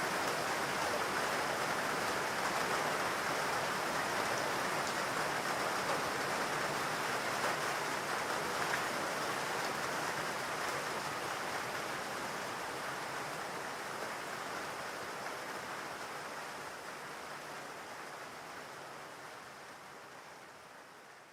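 Steady rain falling, a dense even hiss of drops, fading out slowly over the second half.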